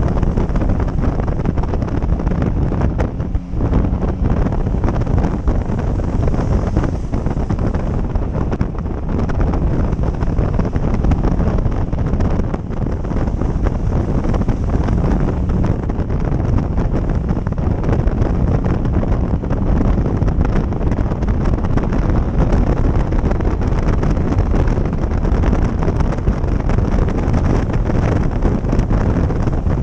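Heavy wind noise on the microphone of a moving motorcycle, with the motorcycle's engine running underneath.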